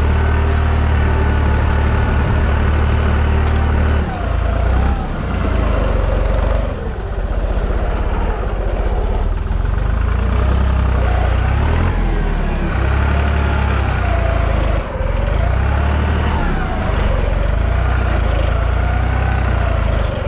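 Deutz 55F tractor engine running steadily under load while pulling a field cultivator. A wavering whine rises and falls over the engine note, and the sound dips briefly a few times.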